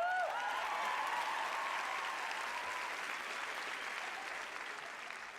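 Large audience applauding and cheering, with a few whoops in the first second, the applause slowly dying down.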